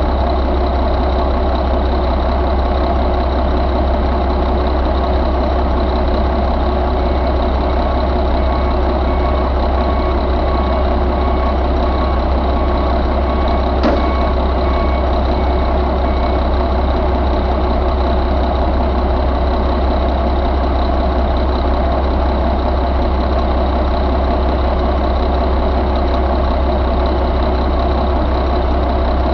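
Mack E7 inline-six diesel engine idling steadily, its pitch and level unchanging, with a single sharp click about halfway through.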